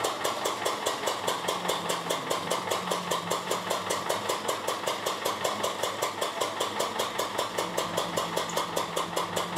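Small gasoline engine driving a sugarcane mill (trapiche), running steadily with an even beat of about six pulses a second.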